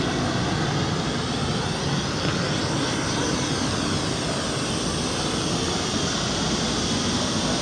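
White noise played through two loudspeakers: a steady, loud hiss. As the listener moves between the speakers, the two sources add and cancel, giving the hiss a slowly sweeping, phasing change in tone.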